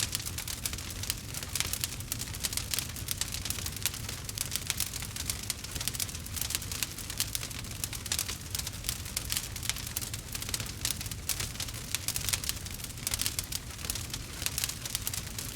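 Campfire crackling: a dense, irregular run of small pops and snaps over a steady low rumble.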